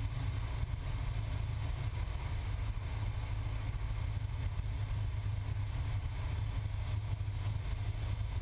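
Cessna 172's piston engine and propeller droning steadily, heard inside the cockpit as an even low rumble.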